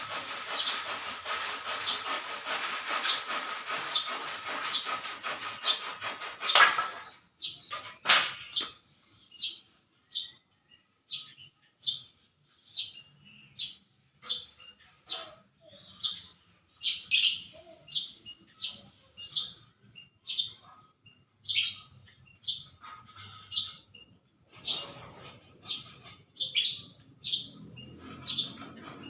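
Small birds chirping, short sharp calls repeated about once or twice a second. A steady hiss sits under the first several seconds, then stops.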